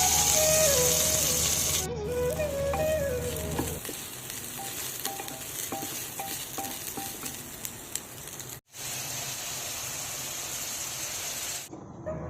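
Food frying in hot oil, a steady crackling sizzle with many small pops, after flute music fades out in the first few seconds; the sizzle cuts out briefly about two-thirds of the way through and then continues.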